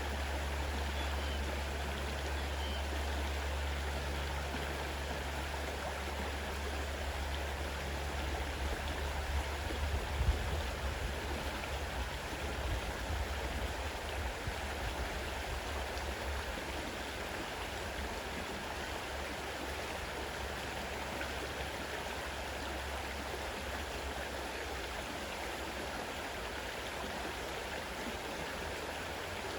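Fast-running river water rushing steadily, with a deep low rumble underneath that is strongest for roughly the first twelve seconds.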